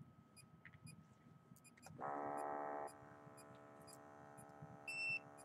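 Automatic blood pressure monitor's cuff pump starting about two seconds in with a buzzing hum. It is loudest for the first second, then runs on steadily as the cuff inflates. A short high beep comes near the end.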